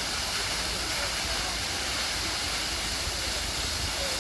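Waterfall pouring down in a steady, even rush of falling water.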